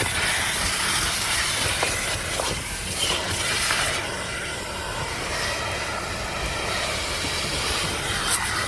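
Car wash vacuum running, a steady rushing hiss of air sucked through the hose while the car is vacuumed, with a few faint knocks.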